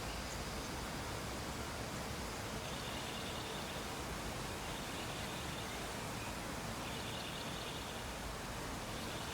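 Steady background hiss, with faint short high tones about every two seconds.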